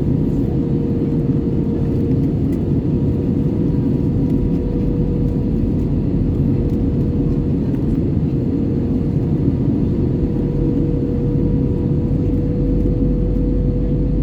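Steady cabin noise of an Airbus A320-214 in flight: a dense low rush of airflow and CFM56 engine noise with a steady hum running through it.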